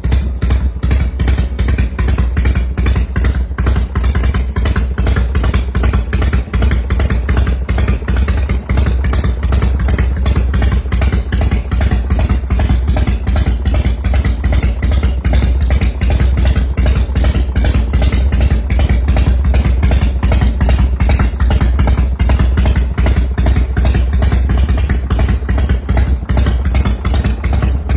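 1993 Honda Gold Wing Aspencade's 1500 cc flat-six engine running steadily at idle, a low, even rumble.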